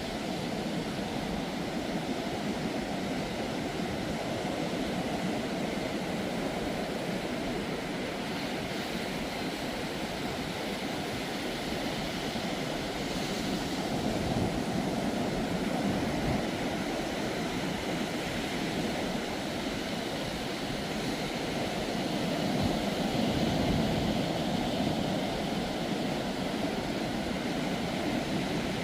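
Ocean surf breaking and washing up on a sandy beach: a steady rush of waves that swells a little louder twice, about halfway through and again near the end.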